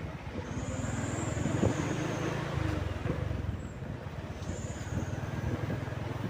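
Overloaded truck's engine running steadily, with a faint high whine that comes and goes twice.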